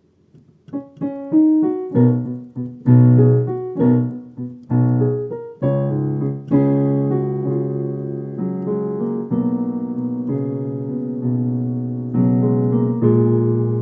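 Piano playing a slow piece. Single notes and chords are struck one after another for the first few seconds, then fuller chords ring on and slowly fade, a new chord coming every second or two.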